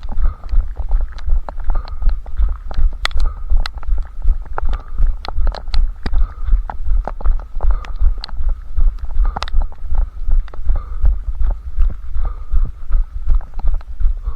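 A runner's footfalls at a steady running pace, heard as deep rhythmic thumps, about three a second, through a head-strapped camera, with scattered sharp ticks over them.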